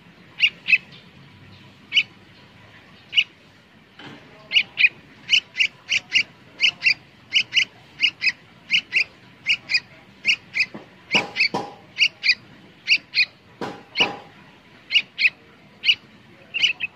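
A bird chirping: short, sharp chirps, often in pairs, repeated many times and coming faster after a few seconds. A few louder, fuller calls come past the middle.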